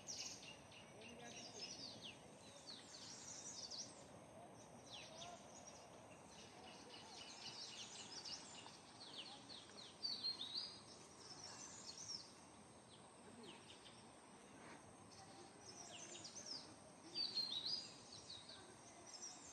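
Birds chirping and singing, many short high notes that sweep downward, over faint steady outdoor background noise; the calls grow louder about ten seconds in and again near the end.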